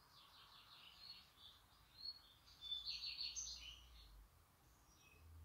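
Faint birds chirping and twittering over quiet room tone, with a quick chattering run of chirps about three seconds in.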